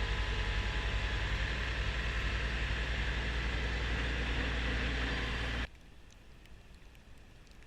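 Kubota B2650 compact tractor's three-cylinder diesel engine and front-mount snowblower running steadily with a pulsing low rumble, then the sound cuts off suddenly near the end, leaving only faint background noise.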